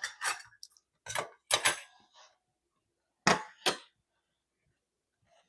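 Metal kitchen utensils clinking and knocking against dishes. The short, sharp strikes come in three clusters, the loudest a pair about three seconds in.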